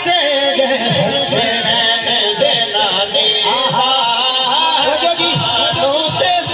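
A man's voice singing long, wavering melodic phrases in devotional recitation.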